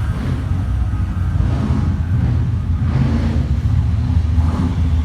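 Low, throbbing engine rumble of vintage cars running in the street.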